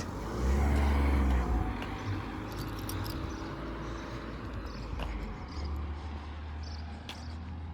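A car driving past, its engine and tyre rumble loudest about a second in and then fading, with another low vehicle rumble coming up near the end.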